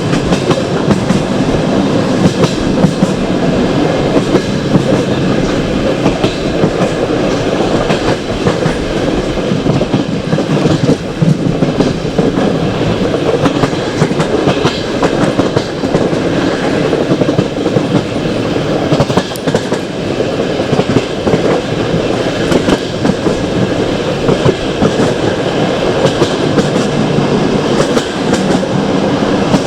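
Passenger train running along the track, heard from aboard a carriage: a steady rumble of wheels on rails with irregular clicking over rail joints.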